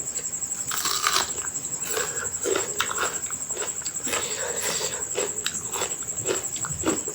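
Chewing and wet lip-smacking while eating mutton curry and rice, with irregular mouth clicks and smacks a few times a second.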